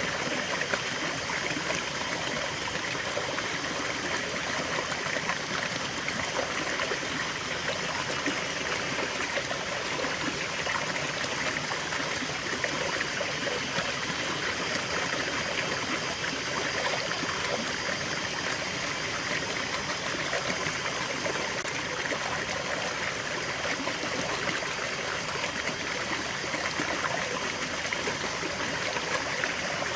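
Small stream of water running and trickling steadily over stones, a continuous babbling rush.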